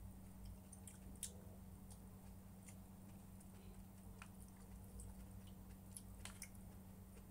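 Faint sounds of a person eating: quiet chewing and scattered small clicks, over a steady low hum.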